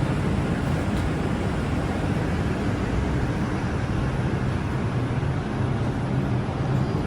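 Steady low hum and noise of an R142 subway train, heard from on board.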